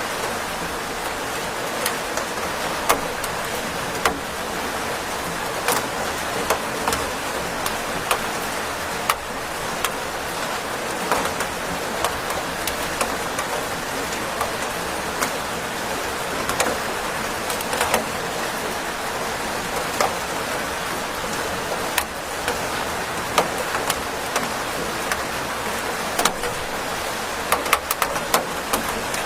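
Steady rain falling: an even hiss with irregular sharp ticks of drops striking a surface.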